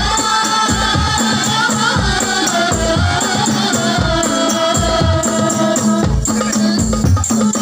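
Sholawat devotional music: a group singing a melody in unison over frame drums with a steady beat and jingling tambourine-like strokes.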